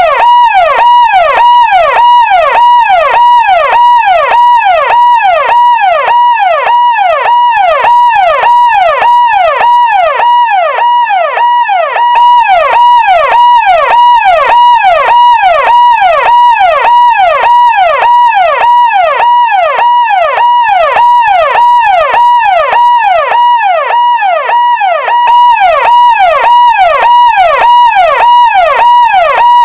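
Electronic siren-style sound effect: a loud pitched tone that sweeps down over and over at a fast, even rate, over a steady beeping tone.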